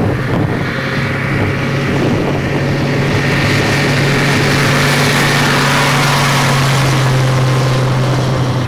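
Vehicle engine running at a steady speed with a constant low drone and road noise, as when driving along.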